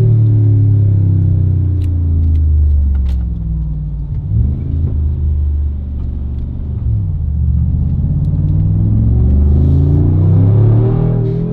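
Brabus XLP 800 6X6's twin-turbo 4.0-litre V8 running. The revs fall off over the first few seconds, blip up and down twice in the middle, then climb steadily toward the end as it accelerates.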